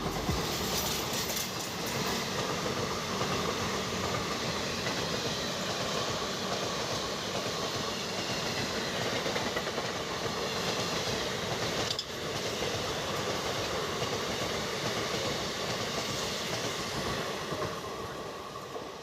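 A MEMU electric passenger train running on the rails: a steady rolling rail noise that dips briefly about twelve seconds in and eases off slightly near the end.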